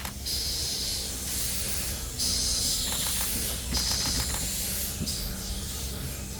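Steam locomotive letting off steam in about four long hissing bursts, each a second or more, over a steady low rumble, with a few light clicks in the middle.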